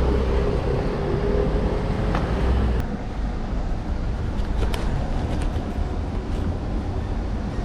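Wind buffeting the microphone of a camera riding along on a mountain bike, a steady low rumble with a few light clicks.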